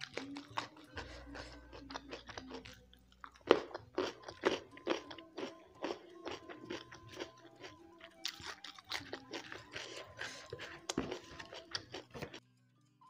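Close-miked chewing of crunchy food: a run of wet crunches and mouth clicks, the sharpest crunch about three and a half seconds in.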